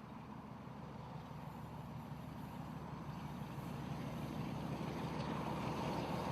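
Class 47 diesel locomotive's Sulzer V12 engine approaching, growing steadily louder.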